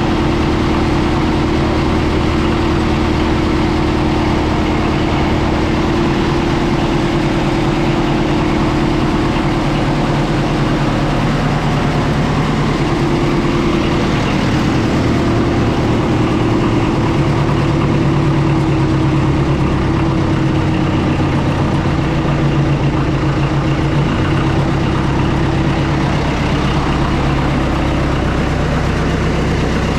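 Oliver 66 tractor's diesel engine running steadily, freshly started after an oil change.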